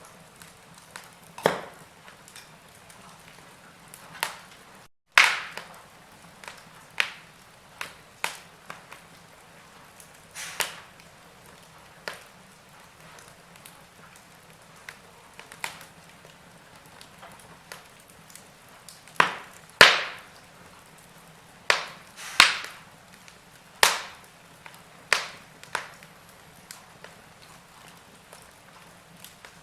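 Wood fire crackling in a fireplace: irregular sharp pops and snaps, a few every couple of seconds, over a faint steady hiss, with the loudest cracks in the second half. The sound cuts out for a moment about five seconds in.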